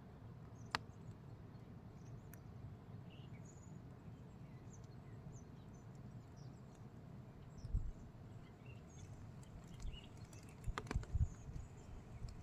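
Quiet outdoor nature ambience: a steady low rumble with scattered faint high chirps. A sharp click comes just under a second in, and a few dull low thumps come near the end.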